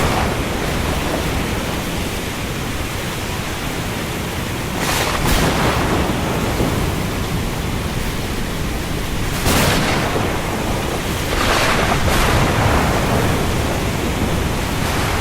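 Steady heavy rain over the open sea, a continuous rushing hiss with a deep low rumble. Several louder rushes of wave or spray come through, about five seconds in, again near ten seconds, and twice around twelve seconds.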